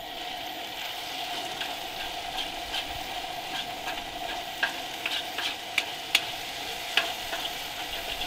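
Chicken and onions sizzling in a hot steel wok on a camp stove. From about two and a half seconds in, a metal spatula scrapes and clicks against the wok as the chicken is stirred.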